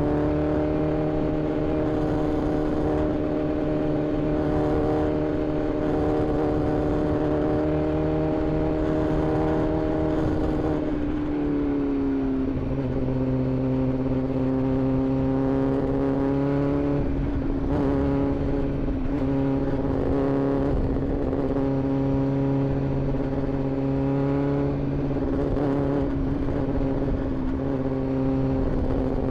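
Inline-four sportbike engine running at a steady cruising speed, its note holding even; about a third of the way in the pitch drops a little and then holds steady at the lower note.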